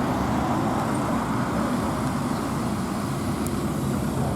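Steady rumble of car traffic, engines running and tyres on the road, with no single engine revving out above the rest.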